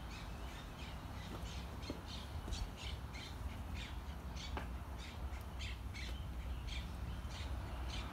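Repeated short bird chirps, a few each second, over a faint steady low hum from an electromechanical swing-gate operator (Toona 5024HS) driving a steel gate open.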